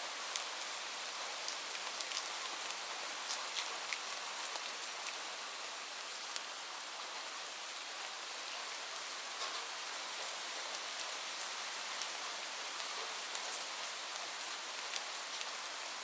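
Steady rainfall: an even hiss of rain with many individual drops ticking sharply here and there.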